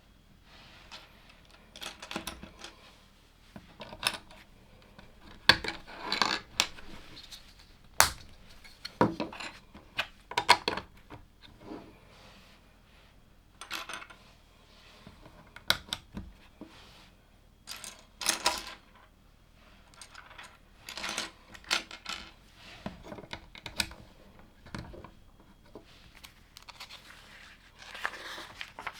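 Plastic LEGO pieces clattering and clicking as they are handled and pressed together, in irregular bursts of sharp clicks and short rattles.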